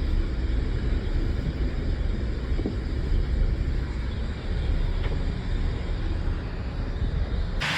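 Steady outdoor background noise: a low rumble under an even hiss, changing abruptly near the end to a louder, brighter rushing hiss.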